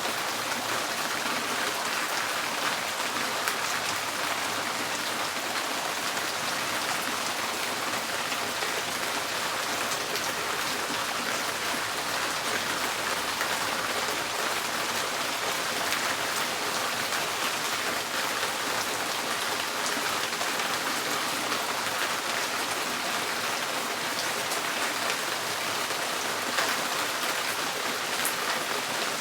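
Steady rain falling on a tin porch roof: a dense, even patter of many small drop impacts on the metal.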